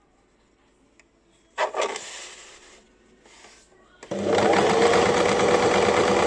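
Basic electric sewing machine stitching in stops and starts: a short run about one and a half seconds in, a brief burst a little later, then a steady full-speed run from about four seconds in.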